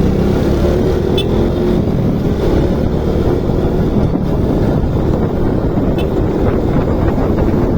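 Motorcycle running while being ridden, its engine note under heavy wind rumble on the microphone.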